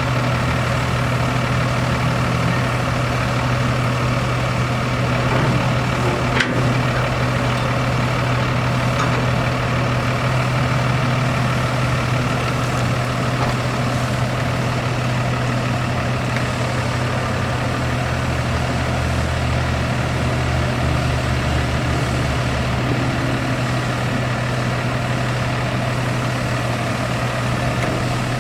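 Cummins 6.7L ISB six-cylinder diesel engine of a 2018 International 4300 dump truck idling steadily, with one sharp click about six seconds in.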